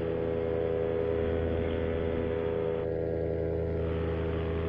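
Paramotor's Vittorazi Moster 185 two-stroke engine and propeller running at a steady cruise drone in flight.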